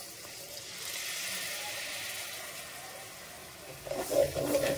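Masala paste frying in hot oil in a pan, sizzling with a steady hiss just after tamarind pulp is poured in. Near the end, louder uneven noises come in over it.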